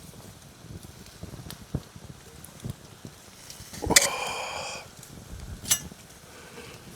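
Campfire crackling softly with scattered small pops. About four seconds in, a sharp clink rings briefly, and a second sharp click comes near six seconds.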